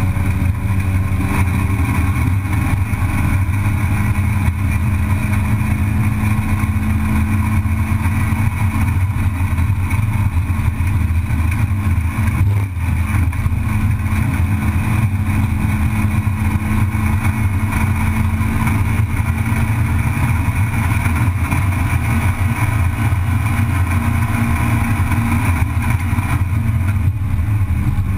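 Race car's engine heard from inside its stripped cockpit under hard driving, loud and steady with little change in pitch.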